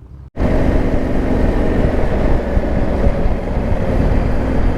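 Yamaha Ténéré 700's parallel-twin engine running steadily under way, with wind rushing over the microphone.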